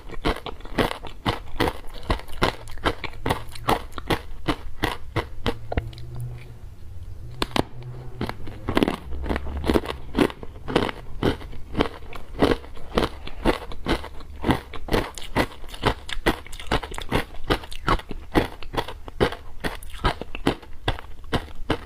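Ice being bitten and chewed close to the microphone: a quick, steady run of crisp crunches, several a second, with a short lull about six seconds in.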